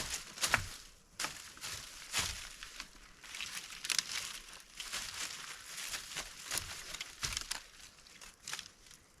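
Irregular rustling and crackling with many sharp snaps and a few dull thumps.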